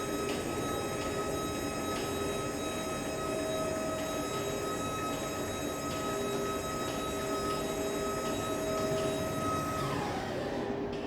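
Electric reach truck motor whining steadily, with faint regular ticks. Near the end the whine falls in pitch as the motor winds down.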